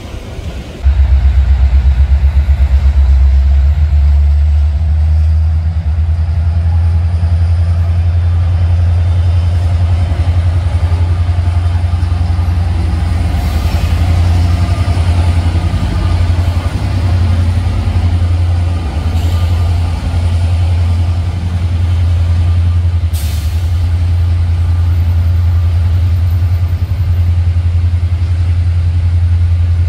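Freight train led by two EMD SD70 diesel locomotives passing, a loud steady low rumble that starts sharply about a second in.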